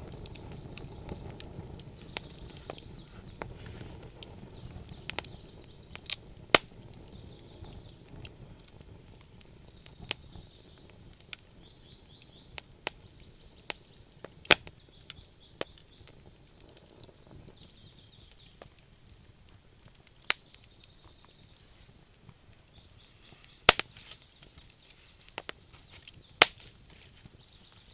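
Wood fire burning in a stove, crackling with irregular sharp pops and snaps. A low rumble under the crackle fades over the first several seconds.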